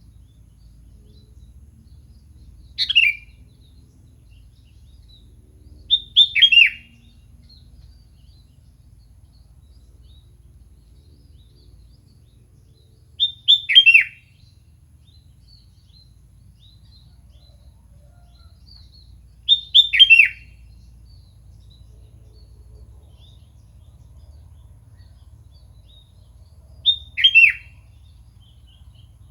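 Sooty-headed bulbul (kutilang) calling: five short calls spaced several seconds apart, each a quick run of two or three falling notes.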